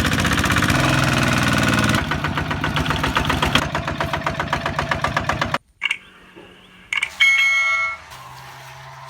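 Kubota ZT155 single-cylinder diesel engine running loud, then chugging at an even beat of several strokes a second. It stops abruptly about five and a half seconds in. A short, loud honk follows a second or so later.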